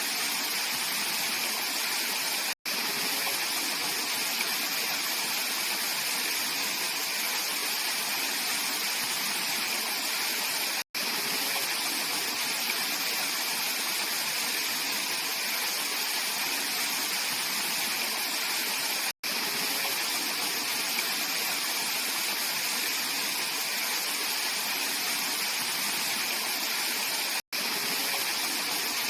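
Mountain valley stream rushing steadily over rocks, a constant full hiss of running water. The sound drops out to silence for an instant four times, about every eight seconds.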